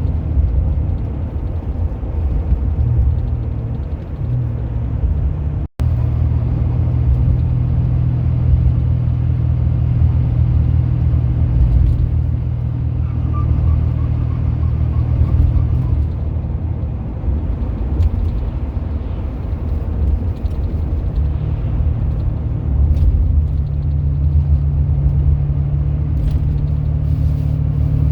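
Turbocharged car engine running with a low, steady drone whose note shifts a few times as the load changes. The sound cuts out briefly about six seconds in.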